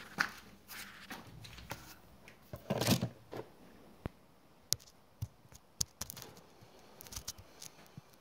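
A few sharp clicks and light handling noises, with a short rustle about three seconds in; no engine is running.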